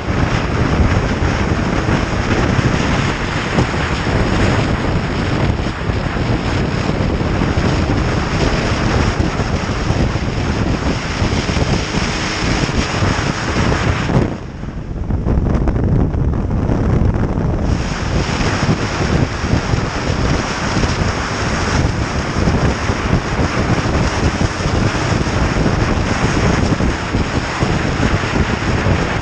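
Heavy wind rush over the microphone mixed with motorcycle engine and road noise while riding at speed, briefly duller for a few seconds about halfway through.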